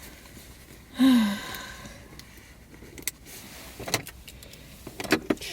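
A brief vocal sound falling in pitch about a second in, then a few sharp clicks and light knocks over a faint steady hum.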